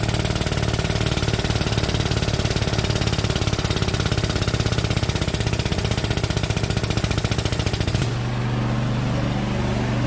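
A fast, steady mechanical rattle over a running engine. The rattle cuts off suddenly about eight seconds in, leaving the engine idling steadily.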